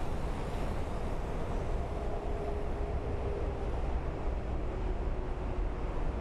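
Jet engine noise of a Boeing 777F freighter landing: a steady, heavy rumble with a faint tone that slowly falls in pitch as the aircraft passes.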